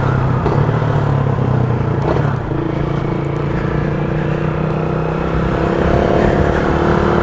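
Motorcycle engine running as the bike rides along, with a rushing wind-like noise over it. The engine note shifts about two and a half seconds in, then rises slowly near the end as the bike speeds up.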